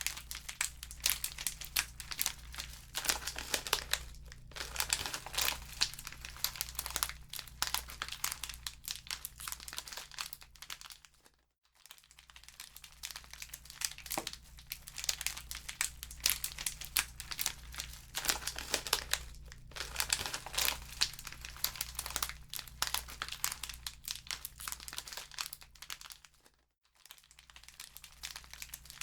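Wood fire in a fireplace crackling and popping with a dense stream of sharp snaps. It cuts out briefly twice, about twelve seconds in and again near the end.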